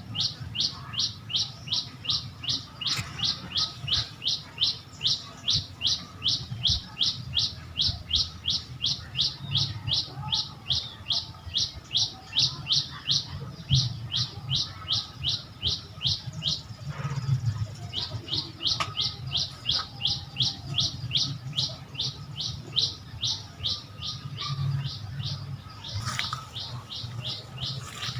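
A bird calling a long, steady series of short high chirps that each drop in pitch, about three or four a second, with a brief break a little past halfway.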